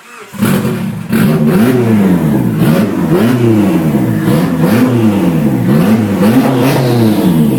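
Freshly rebuilt 1990 Mitsubishi Eclipse GSX's turbocharged 4G63 inline-four firing up on its first start after the rebuild, about a third of a second in, then revved up and down repeatedly, about once every three-quarters of a second.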